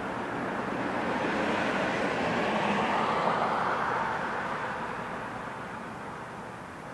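A passing vehicle: a steady rushing noise that grows louder, is loudest about three seconds in, then fades away.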